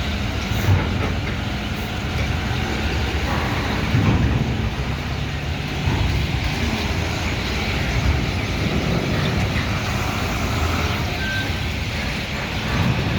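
Heavy diesel vehicle engine running at a steady low rumble, with surrounding road traffic noise.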